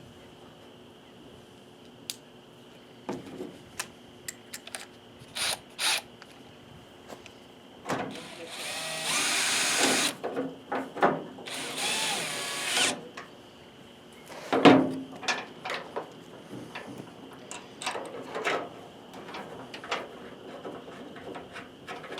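Cordless drill-driver running in two short bursts, the second shorter, amid clicks and knocks of metal parts being handled, with one sharp knock soon after. It is driving fasteners as the tailgate latch assembly is put back on.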